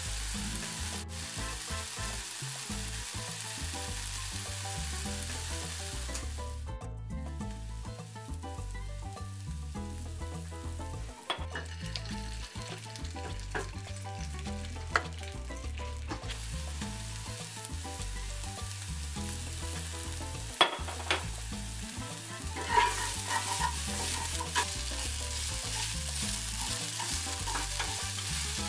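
Food sizzling as it fries in a non-stick pan, with stirring and a few sharp clicks in the second half. Diced onion and tomato fry first, then hashbrowns, which are broken up with a plastic spatula.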